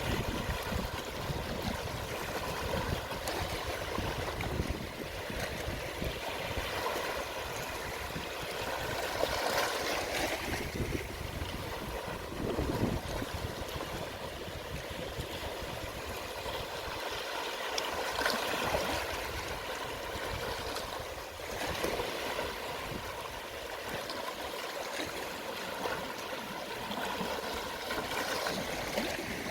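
Gentle sea waves washing on the shore at low tide: a steady wash of water with soft swells every few seconds and some trickling and gurgling.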